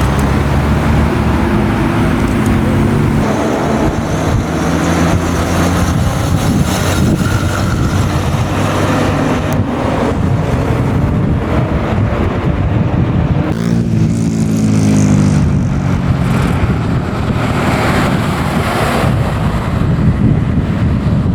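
Classic car engines running steadily, with one engine revving up and accelerating a little past the middle.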